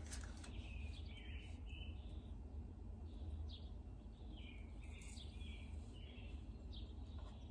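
Faint bird chirping: short calls repeated every second or so, over a steady low hum. A few light clicks, near the start and about five seconds in, as tarot cards are laid on a table.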